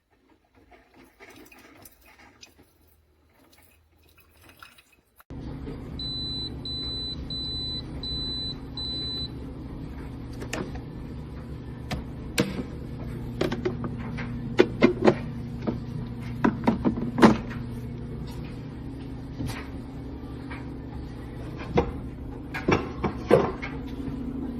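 Single-serve coffee maker switching on about five seconds in: a steady low hum of its motor or pump, five short high beeps a second after it starts, then scattered clicks and knocks over the hum.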